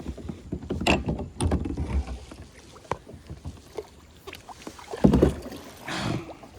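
Small fishing kayak rocking on choppy water, with water sloshing against the hull and irregular knocks of gear against it. The loudest knock comes about five seconds in. Wind buffets the microphone.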